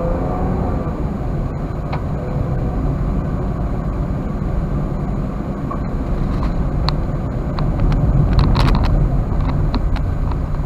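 Cabin noise of a Toyota Wigo being driven: a steady low engine and road rumble, with a few light clicks and knocks about seven to nine seconds in.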